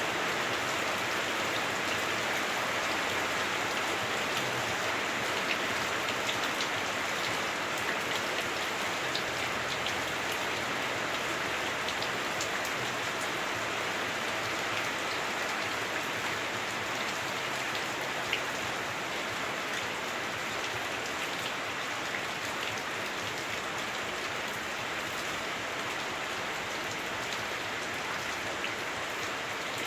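Heavy rain drumming steadily on a house roof, heard from inside the house, with scattered individual drop ticks over a dense hiss.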